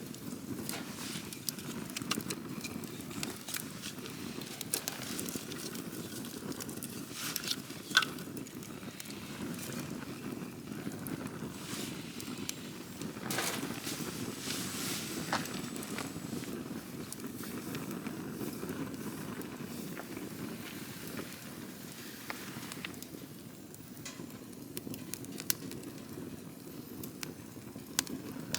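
Campfire crackling: many sharp pops and snaps scattered over a steady low rumble of the flames, with one loud pop about eight seconds in and a busier run of crackles around the middle.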